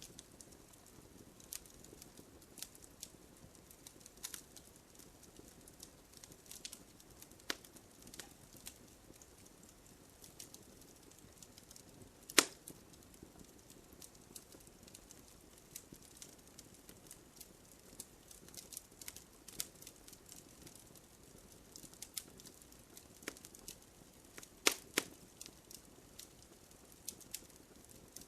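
Wood campfire burning: a soft steady hiss with scattered crackles and snaps, and a few sharper pops, the loudest about twelve seconds in and a pair near the end.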